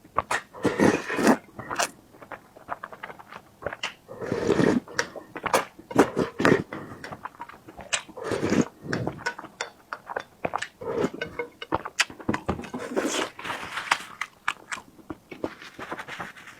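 Close-miked eating: biting and chewing food with wet mouth sounds and frequent sharp clicks, in short irregular bursts.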